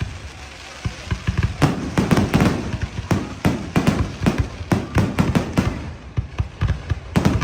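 Fireworks finale: a rapid volley of sharp bangs and crackles. A few bangs in a short lull, then from about a second and a half in the explosions come thick and fast, several a second.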